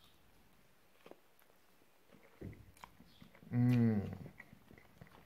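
A man chewing a mouthful of pizza, with faint soft mouth clicks. About three and a half seconds in he gives one short, loud hum of enjoyment.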